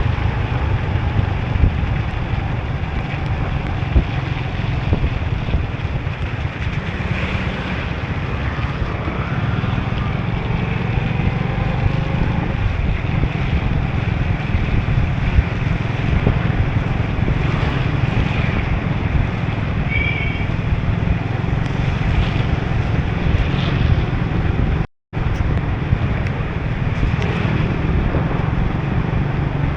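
Riding a motorbike on a wet city road: steady wind rumble on the microphone over tyre and traffic noise. For an instant near the end the sound cuts out completely.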